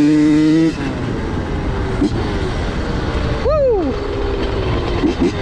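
Honda CR85 two-stroke dirt bike engine held high in the revs, then the throttle is shut about a second in and the bike runs on low under wind noise. A quick throttle blip comes about three and a half seconds in, its pitch falling away, and a shorter one comes near the end.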